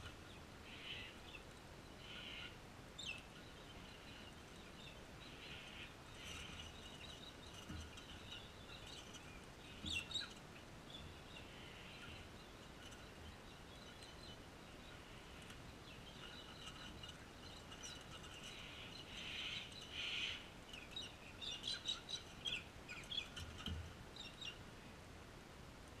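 Birds chirping and calling on and off, busiest for a few seconds near the end, with a few soft knocks in between.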